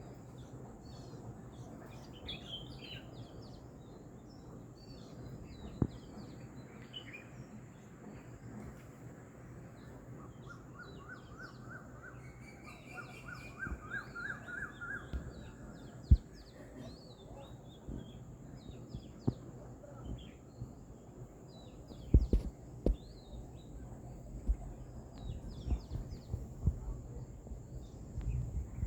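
Small birds chirping and calling, many short high chirps, with a quick run of repeated notes about midway. A steady high-pitched whine and low hum sit underneath, and a few sharp knocks, mostly in the second half, are the loudest sounds.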